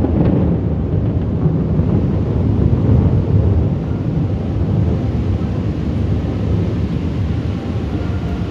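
Low, continuous rumble of rolling thunder, easing slightly toward the end.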